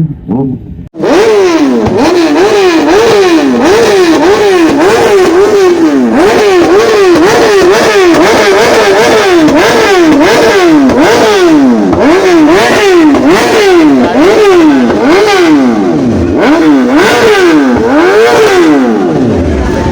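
Superbike engine with a loud exhaust being revved over and over, the pitch climbing and dropping about twice a second. It starts abruptly about a second in and drops back near the end.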